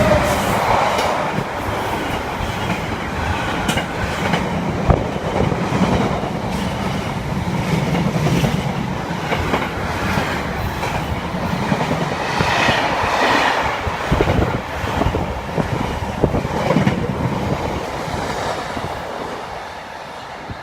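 Train passing through the station, its wheels clattering rhythmically over the rail joints; the noise dies away near the end.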